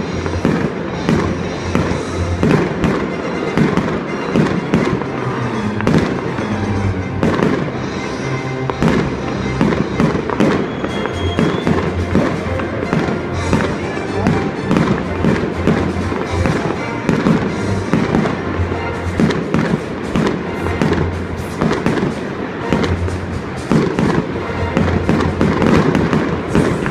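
Fireworks display: a dense, continuous run of bangs and crackles, several every second, with music playing underneath.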